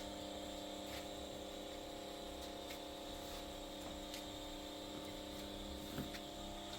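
A steady hum made of several held tones, with a few faint clicks about 1, 4 and 6 seconds in.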